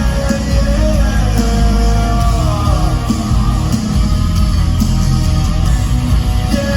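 Amplified live rock band playing loudly, electric guitar over heavy bass and drums.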